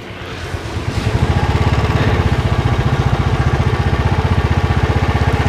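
Royal Enfield motorcycle engine running with a rapid, even beat, growing louder over about the first second and then holding steady.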